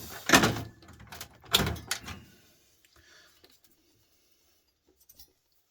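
Two loud clunks about a second apart from desktop computer parts being handled during a teardown, followed by a quiet stretch with a few faint ticks.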